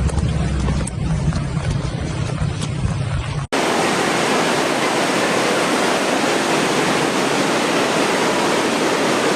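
A low rumbling noise, then after a sudden cut about a third of the way in, a steady loud roar of rushing floodwater.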